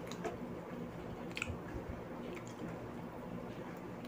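Close-up eating sounds: soft, wet chewing with a few faint clicks.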